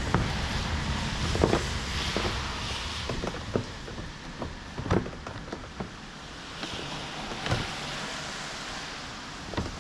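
Scattered sharp clicks and knocks of hand tools on metal car parts over a steady hiss, a knock every second or two.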